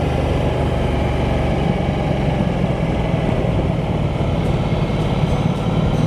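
Ducati Multistrada 1200S's V-twin engine and exhaust running steadily while the motorcycle cruises at an even speed.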